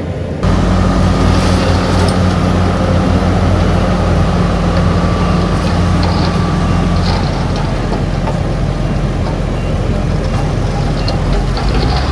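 Diesel engine of heavy earthmoving machinery running steadily. It comes in abruptly about half a second in, with a faint high whine over it that fades about seven seconds in.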